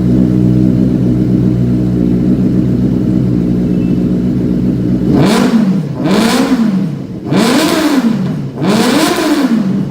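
Motorcycle engine idling steadily through its exhaust, then revved in four quick throttle blips from about five seconds in, each rising and falling in pitch.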